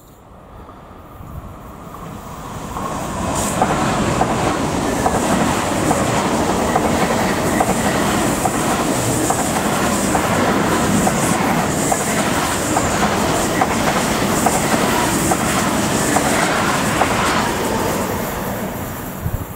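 ICE 3 high-speed train passing at speed on the track close by: a rushing roar of wheels on rail with a light clickety-clack. It swells up over the first few seconds, holds loud and steady, then dies away near the end as the last car goes by.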